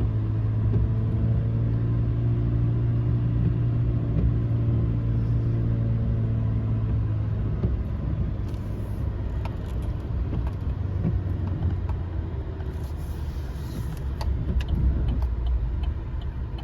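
Chevrolet Silverado's 2.7-litre four-cylinder engine braking in low gear on a steep downhill, a steady high-revving drone heard from inside the cab. About seven seconds in, the engine note fades away, leaving low road rumble.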